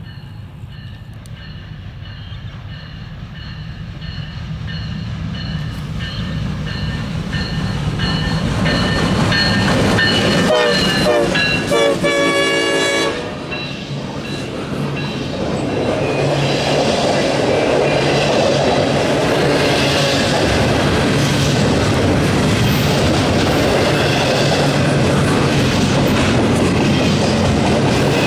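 A CSX double-stack freight train led by a new Tier 4 EMD SD70ACe-T4 locomotive grows louder as it approaches. The horn sounds loudest about eleven seconds in, dips in pitch as the locomotive passes, and cuts off about two seconds later. The locomotives' diesel engines and the loaded stack cars then roll by steadily, with wheels clicking over the rail joints.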